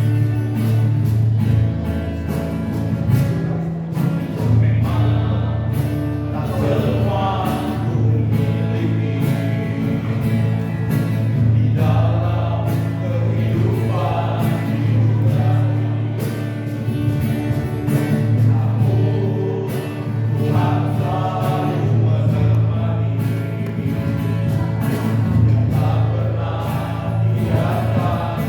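Gospel-style choral music: a choir singing over a steady, loud backing with a sustained bass.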